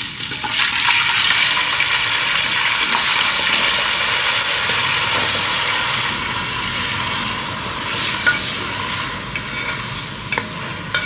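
Raw cubed potatoes sizzling as they hit hot ghee with cumin seeds in a hammered copper pot; the sizzle softens after about six seconds, and a wooden spoon stirs them near the end.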